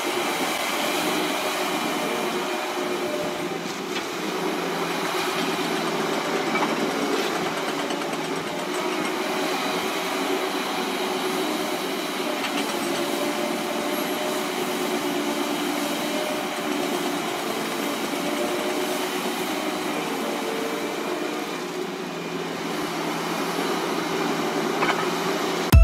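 Heavy vehicle's engine running steadily, with several held tones that drift slightly in pitch.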